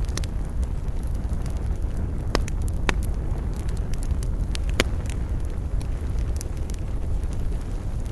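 Wood campfire crackling, with scattered sharp pops (three louder ones a couple of seconds apart in the middle) over a steady low rumble.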